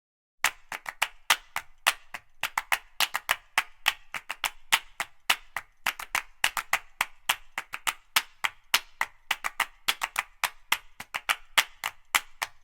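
A quick run of sharp percussive clicks, about four to five a second, like wood-block or clap percussion in a music track, starting about half a second in.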